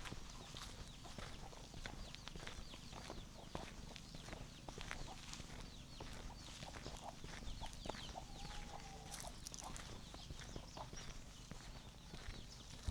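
Footsteps on a village path, with small birds chirping throughout and a chicken giving one drawn-out call about eight seconds in.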